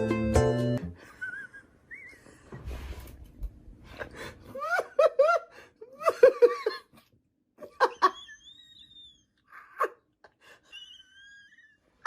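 Short bursts of high, laughter-like vocal sounds, followed by a few thin, high whistling calls that glide up and down.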